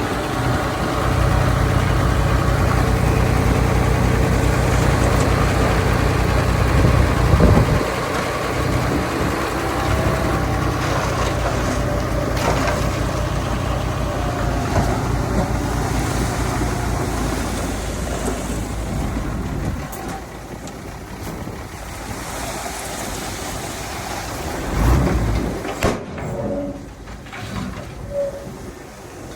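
Heavy diesel earthmoving machinery running, a bulldozer or dump truck engine. It is loud and steady for the first part, then drops away after about twenty seconds, with a few brief louder sounds near the end.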